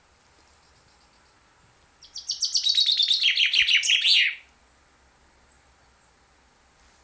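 A songbird singing one rapid trill of about nine notes a second, lasting a little over two seconds, starting about two seconds in and dropping in pitch toward its end.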